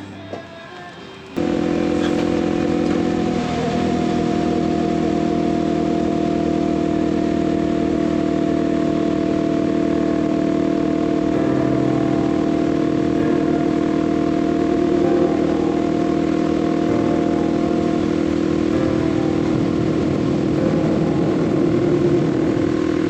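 Kawasaki KLX300 motorcycle's single-cylinder engine running steadily at highway cruising speed, with a steady rush of wind and road noise. It cuts in abruptly about a second and a half in.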